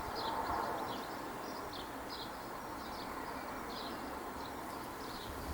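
Birds chirping in short, high calls, about two a second at irregular spacing, over a steady background hum.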